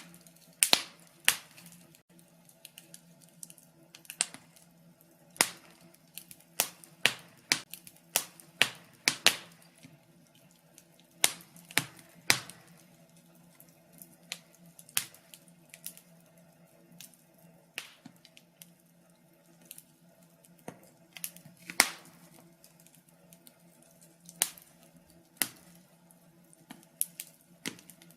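Logs burning in a fireplace, crackling with irregular sharp pops and snaps, sometimes several in quick succession, over a faint steady hum.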